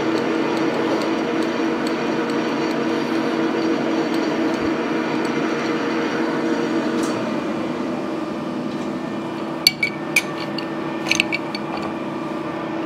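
Electric drill motor running steadily while drilling metal, the cutting noise easing about seven seconds in as the motor keeps running. A few sharp metallic clinks follow about ten and eleven seconds in.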